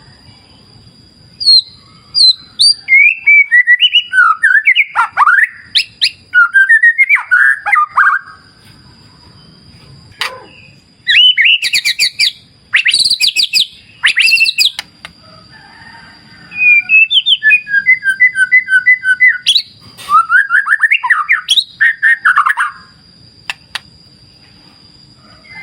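White-rumped shama singing in bursts of loud, varied whistles, trills and quick repeated notes, with short pauses between phrases. A steady faint high-pitched tone runs underneath.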